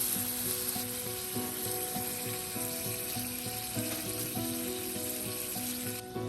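Meat-wrapped asparagus sizzling in hot oil in a pan, a steady crackling hiss that drops out briefly near the end. A soft melody plays underneath.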